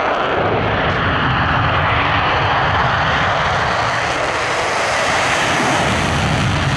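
F-35A's single Pratt & Whitney F135 afterburning turbofan at full afterburner on takeoff: loud, steady jet noise with a deep rumble underneath.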